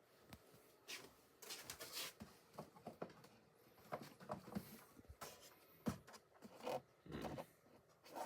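Plastic DVD cases being handled and shifted about, giving scattered, irregular clicks, knocks and rustles.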